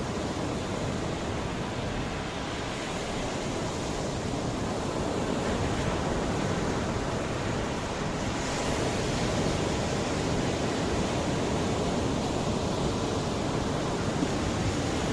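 Mediterranean sea waves washing onto a beach: a steady rush of surf that swells slightly about halfway through.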